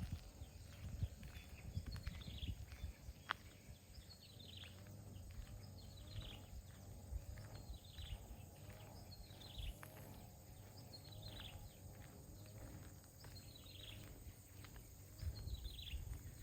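A bird repeating a short call that falls in pitch, about once a second, faint over low rumbling and occasional soft knocks from walking outdoors.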